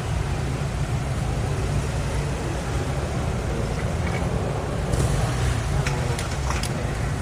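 Subaru Impreza WRX STI's turbocharged flat-four idling with a steady low rumble. A few sharp clicks come between about five and seven seconds in.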